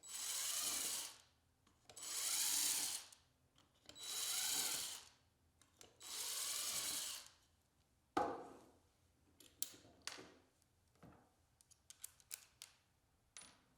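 Power drill run in four short bursts about two seconds apart, its motor pitch bending within each burst. These are followed by a sharp knock and scattered clicks and rattles of handling the tool and workpiece.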